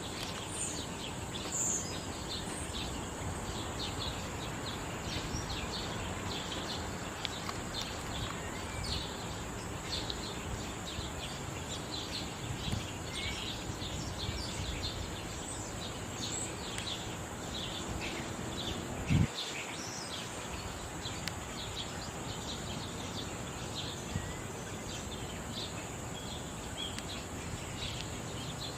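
Outdoor ambience: small birds chirping again and again over a steady background hiss, with a steady high-pitched buzz throughout. A single sharp thump sounds about two-thirds of the way through and is the loudest sound.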